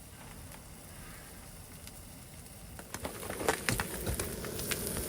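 Open cooking fire crackling faintly, with spilt cheese burning in it; a run of sharper crackles and ticks starts about three seconds in.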